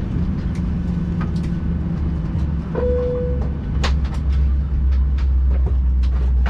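Cabin noise inside a Boeing 737-800 after landing: a steady low rumble with scattered clicks and knocks. A short steady tone sounds about three seconds in, and a sharp knock comes about four seconds in, after which the rumble grows a little louder.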